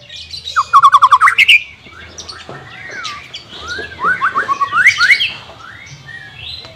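White-rumped shama singing: a fast run of about eight short rising notes about a second in, then varied whistled phrases and gliding notes, with another quick run of rising notes near five seconds in.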